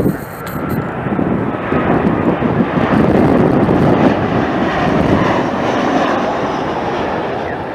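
Jet airliner passing, its engines making a steady loud rumble that swells after the first second and eases slightly near the end.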